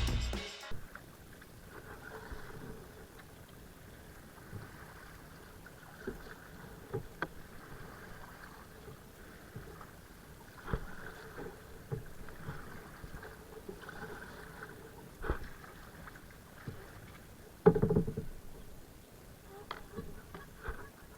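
Kayak paddling on a river: soft swishes of the paddle in the water, with scattered small knocks, probably the paddle against the hull, and one louder knock about 18 seconds in.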